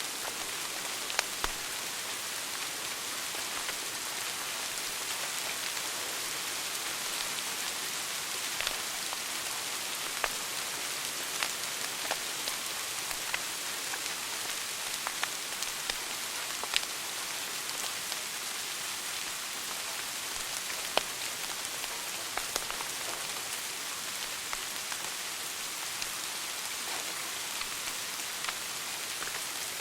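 Wood fire burning in a fireplace and crackling: a steady hiss with irregular sharp pops, a few of them louder than the rest.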